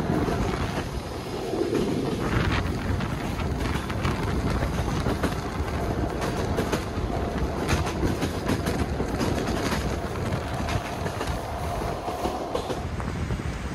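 A train running along the track: a steady rumble of wheels on rail with scattered clicks, and a faint steady whine in the second half.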